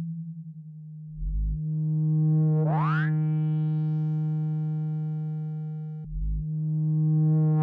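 Synthesized water-ejection tone for clearing water from a phone speaker: a steady low hum. Twice a deep thud cuts in, after which the tone turns buzzier, and a fast rising chirp sweeps up about three seconds in and again at the end.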